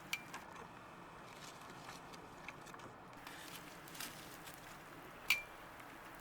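Faint scattered clicks and small knocks over a quiet background, with one louder click that rings briefly about five seconds in.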